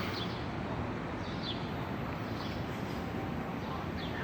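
Steady background noise with several short, high bird chirps, three or four in all.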